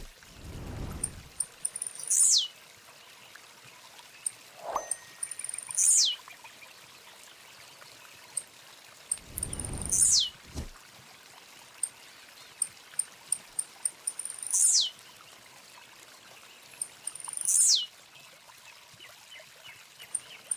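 A bird repeating one loud whistled call that slides steeply down in pitch, five times about three to four seconds apart, with short high chirps in between.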